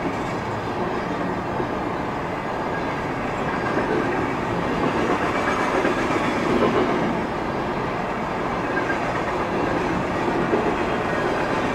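Boxcars of a passing freight train rolling by on the rails, a steady noise of wheels on track that swells a little from about four to seven seconds in.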